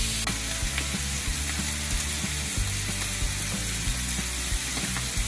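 Chicken skin frying in a nonstick pan: a steady sizzle with scattered small pops and crackles.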